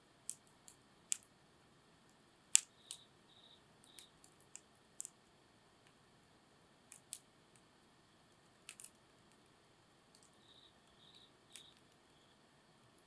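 Wood fire crackling: irregular sharp pops and snaps over a quiet background, the loudest snap about two and a half seconds in. Faint short high chirps sound a few times.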